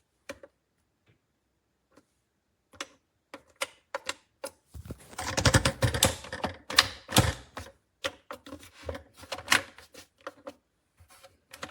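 Irregular sharp clicks and knocks, thickest for a few seconds in the middle: hard plastic parts of a blender pitcher and lid being handled and pressed onto the base.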